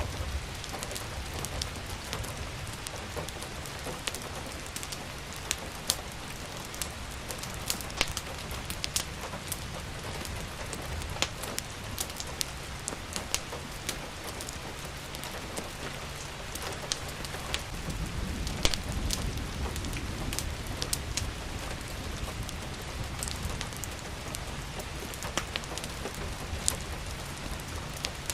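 Steady rain with a wood fire crackling in a fireplace, sharp pops scattered irregularly over the hiss. A low rumble swells about two-thirds of the way through.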